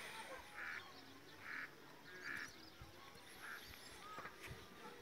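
Faint village bird calls: a short, rough call repeated about once a second, with scattered small chirps.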